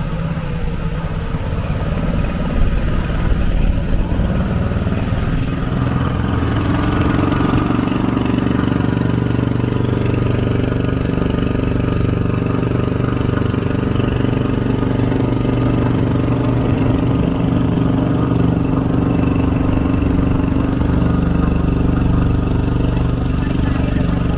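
An engine running steadily at an even pitch, like a motor idling or cruising.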